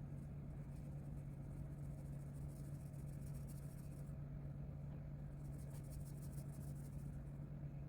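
Rapid back-and-forth colouring strokes scratching on paper, in two spells of a few seconds each, over a steady low hum.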